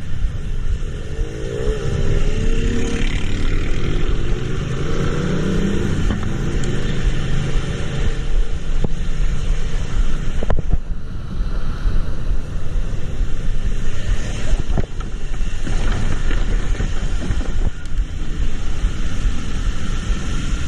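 Road traffic: a vehicle engine running under a steady low rumble of road and wind noise. Its pitch rises and falls in the first few seconds, and a few short clicks come later.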